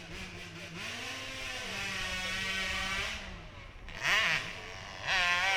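Small 65cc dirt bike engine revving hard as it climbs a hill, its pitch rising and falling with the throttle, getting louder near the end.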